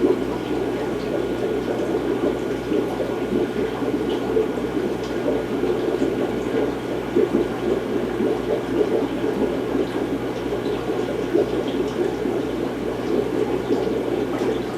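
Aquarium filtration bubbling and gurgling steadily, with a constant low hum underneath.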